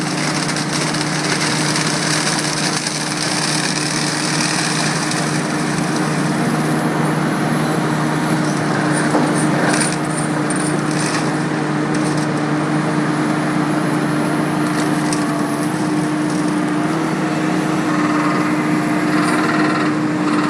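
Seppi Super BMS 150 forestry mulcher running steadily under engine power, a constant drone with a few sharp cracks about halfway through.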